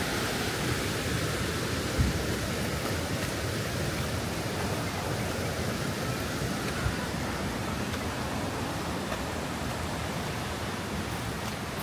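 Steady rushing of fast-flowing stream water, an even hiss without pauses.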